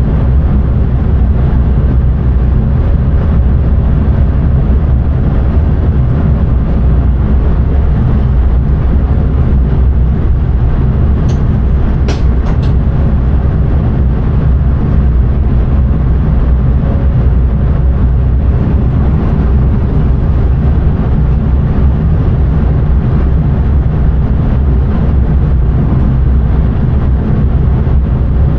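Intercity passenger train running along the line, heard from the driver's cab: a steady, loud rumble of wheels on rail with a low hum, and a few sharp clicks about twelve seconds in.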